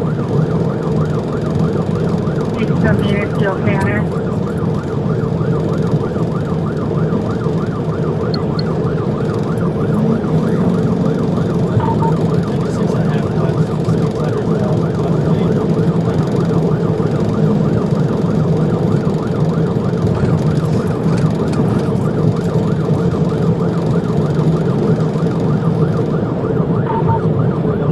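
Police car siren sounding a fast, rapidly repeating yelp throughout, over steady engine and road noise from the patrol car.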